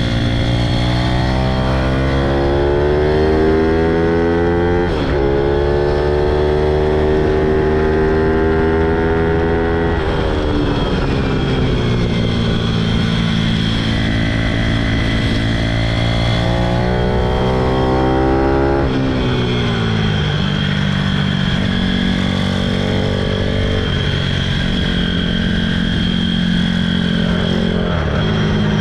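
Pitom pit bike's single-cylinder engine ridden hard on a track, its pitch climbing under throttle and dropping sharply at gear changes a few times. About two-thirds through the engine note falls away as the bike slows, then it climbs again.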